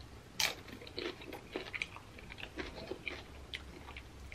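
Close-up chewing of a mouthful of tortilla chips topped with cheese and beef: one loud crunch about half a second in, then a run of smaller, irregular crunches.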